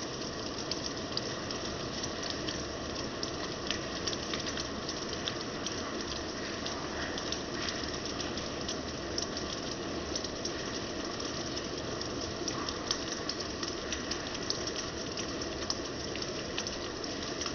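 Steady rainfall: an even hiss with many small ticks of drops striking a surface.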